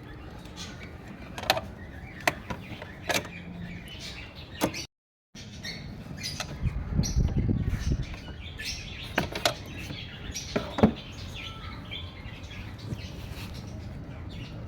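Scattered sharp clicks and knocks of hand tools working on the thermostat housing of a Maruti Baleno engine, with birds chirping in the background. The sound drops out completely for a moment about five seconds in.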